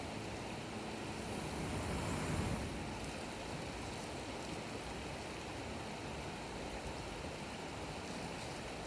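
Campfire burning down a large log of firewood: a steady rushing hiss that swells briefly about two seconds in, with a few faint pops.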